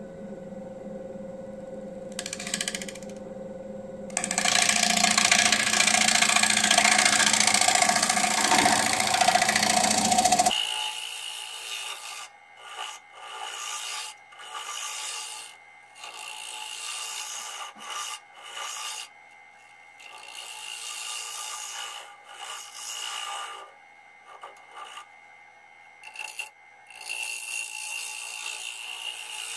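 Wood lathe turning an English walnut bowl, a tool cutting the spinning wood with a loud, steady hiss of shavings over the motor hum. About ten seconds in the hum drops away and the cutting goes on in short bursts with pauses between them.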